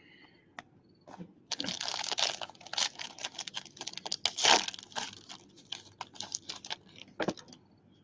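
Trading-card pack wrapper being torn open and crinkled, a dense crackling rustle that starts about a second and a half in and stops shortly before the end, after a few separate clicks.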